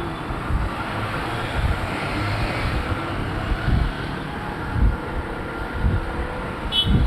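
Road traffic running past, with wind buffeting the microphone in irregular low thumps and a brief high chirp near the end.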